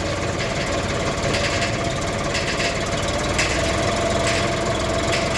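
Sonalika Maharaja 745 tractor engine running steadily, with a regular pulse of higher-pitched noise about once a second.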